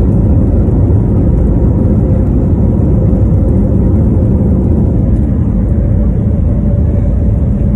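Steady, loud rumble of a passenger airliner's engines and rushing air heard from inside the cabin, with a faint steady hum over it.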